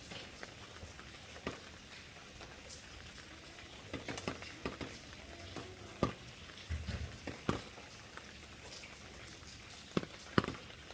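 Rain falling with a steady soft hiss, and scattered louder drops tapping a surface, several around the middle and two near the end.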